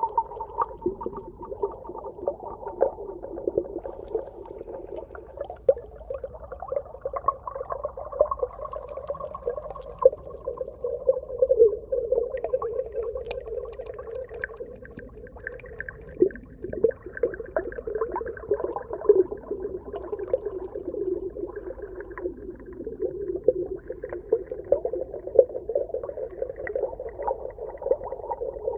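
Underwater ambience: a steady, muffled wash of water, dense with small crackles and pops.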